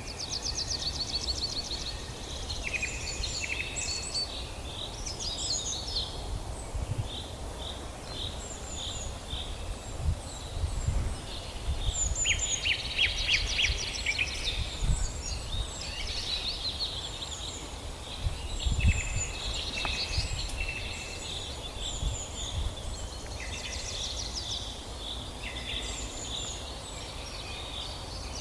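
Forest songbirds singing and calling over one another: fast trills, short repeated chirps and quick whistled sweeps, with a low rumble and a few dull thumps underneath.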